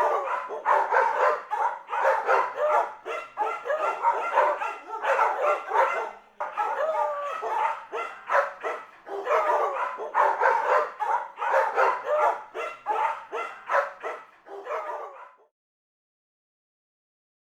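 A dog barking, yipping and whining in a rapid, unbroken run of short calls, which stops suddenly about fifteen seconds in.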